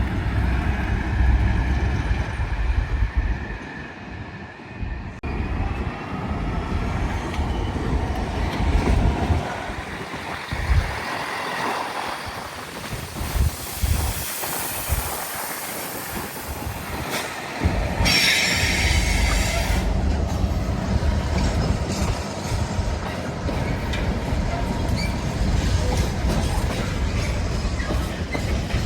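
A train moving through the station, its engine and wheels rumbling steadily, with a brief high-pitched wheel squeal about two-thirds of the way through.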